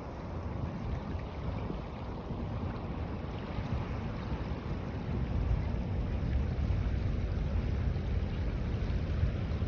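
Waves washing in at a river mouth with wind buffeting the microphone as a low rumble, growing louder in the second half.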